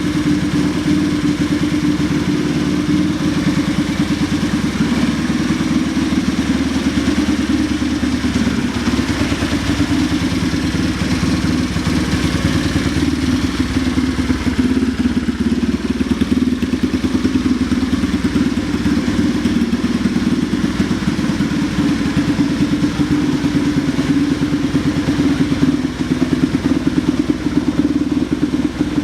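Honda Magna Fifty (AC13) 50 cc single-cylinder four-stroke engine idling steadily through an aftermarket custom muffler.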